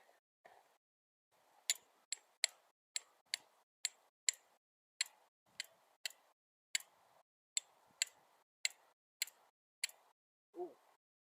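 A series of sharp, bright clicks at uneven spacing, roughly two a second, with a short falling tone just before the end.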